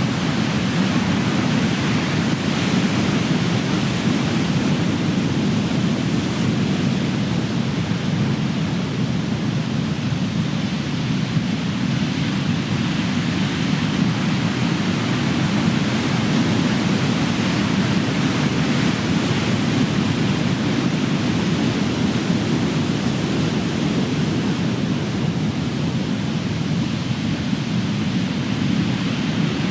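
Big ocean waves breaking, a continuous wash of surf that swells and eases slightly with no single crash standing out.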